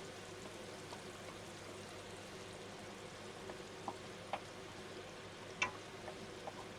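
Onions, garlic, ginger, spring onions and chilli sizzling gently in oil in a frying pan, a steady soft hiss, with a few short clicks around the middle.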